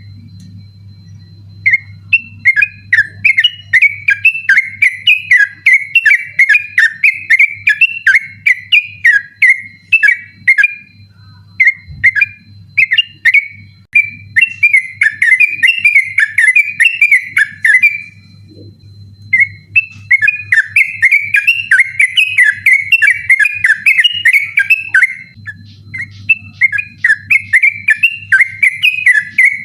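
Yellow-vented bulbul (trucukan) singing in long runs of fast, chattering whistled notes, the rapid non-stop 'ropel' delivery that bird-keepers train for, broken by two short pauses. A faint steady low hum lies underneath.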